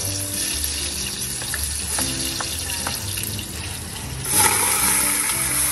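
Chopped onion sizzling in hot cooking oil in a pot as it is sautéed, with a few light clicks. The sizzle grows louder again about four seconds in.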